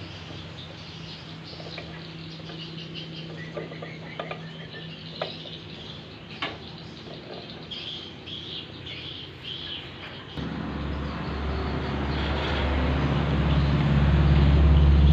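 Birds chirping and a few light clicks over a steady low hum. About ten seconds in, a low engine rumble comes in suddenly and grows louder.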